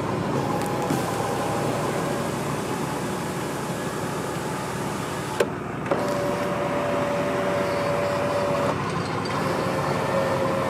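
Electric sunroof motor of a 1992 Toyota Land Cruiser running the glass panel: a click a little past halfway, then a steady whine for a few seconds, a short stop, and the whine again near the end, over a steady background hum.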